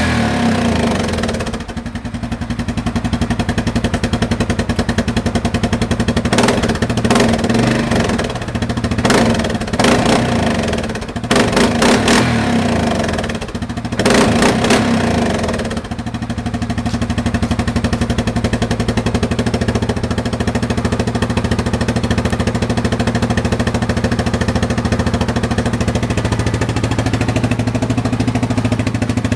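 Yamaha Grizzly 700 ATV's single-cylinder four-stroke engine through an aftermarket exhaust tip, revved in a run of short blips over the first half, then settling to a steady idle.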